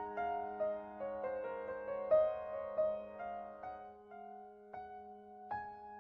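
Background music: a soft, gentle piano melody of single notes over a sustained low note, thinning to slower, sparser notes in the second half.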